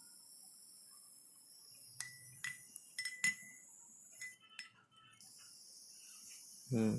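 Faint, steady high-pitched hiss, with several light, ringing clinks about two to three seconds in. The hiss drops out briefly just before five seconds and comes back stronger.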